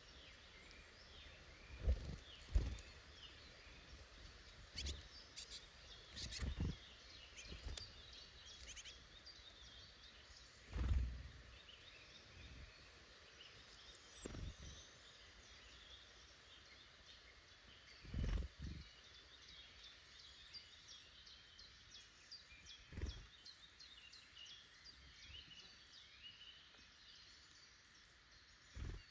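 Small woodland songbirds singing and calling in the background, faint and continuous. Occasional short low thumps, about eight, are scattered through it.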